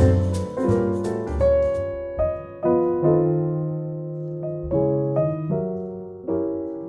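Background music: a piano playing a slow passage of chords and single notes, each note ringing and fading.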